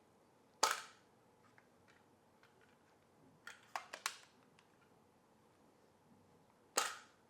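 A few sharp plastic clicks and handling knocks from a Shark WandVac handheld vacuum's quick-release dust cup being worked: one click, then a small cluster of clicks, then another click near the end, with quiet room tone between.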